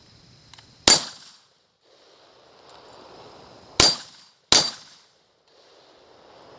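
Three gunshots: one about a second in, then two close together, less than a second apart, near the middle.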